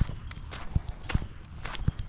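Footsteps of a person walking along a nature trail at a steady pace, about two steps a second.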